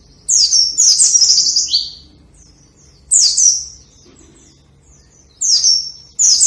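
White-eye (pleci) singing in fast, high twittering phrases with quick falling notes: four bursts of song with short pauses between them.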